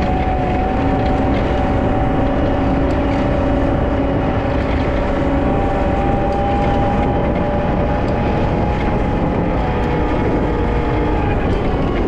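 Wheel loader's diesel engine running steadily under load while plowing snow, its pitch rising slightly about halfway through.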